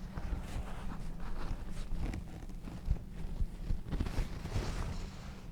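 Irregular scratchy strokes with light knocks, from a paintbrush working paint on a canvas close to the microphone.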